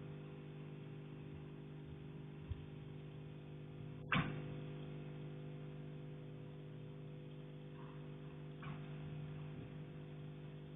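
Knocking carried through the structure of an apartment building: one sharp, loud knock about four seconds in that rings on briefly, a fainter knock near the end and a dull thump a couple of seconds in, over a steady hum.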